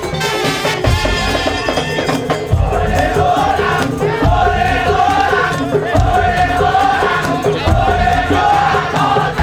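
Madurese tong-tong (daul) ensemble playing: heavy drum strokes about once a second under a held, wavering melody line.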